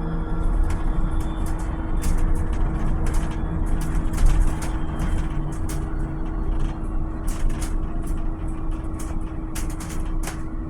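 Volvo BZL electric bus on the move: a continuous low road rumble under a steady hum, with frequent short rattles and clicks throughout.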